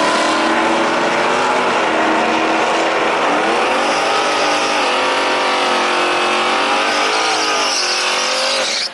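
Drag-racing 1963 Chevy pickup's engine running hard down the strip, its pitch dipping and climbing again a few times. It cuts off abruptly near the end.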